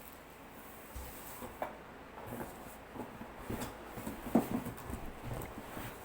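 Faint scattered light knocks and rustles of a vacuum cleaner's plastic parts and packaging being handled, with one louder knock about four seconds in.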